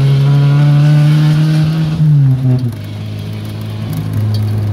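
Fiat Uno's engine and exhaust pulling under acceleration, the pitch climbing slowly, then dropping about two seconds in and running steadily at a lower pitch.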